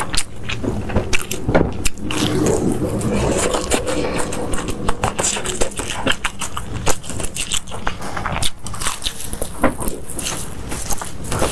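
A person chewing food close to the microphone, with many irregular sharp clicks and crackly, crunchy bites.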